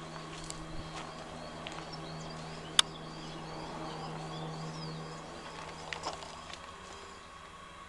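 Small birds chirping, a quick series of short high chirps over a steady low hum. A single sharp click cuts in about three seconds in, and a couple of fainter clicks follow about six seconds in.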